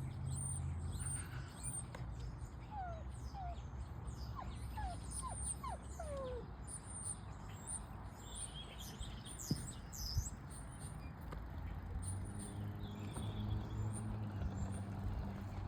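Small birds chirping in many short high notes, with a run of short falling whistles in the first half. A low hum sits underneath, strongest at the start and again near the end.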